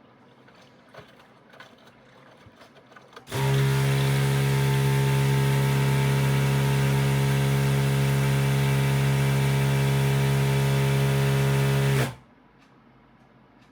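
Aidoo 1 kg mini washing machine giving a loud, steady hum with a rushing haze over it for about nine seconds. It switches on abruptly a few seconds in and cuts off just as abruptly, after a few faint ticks.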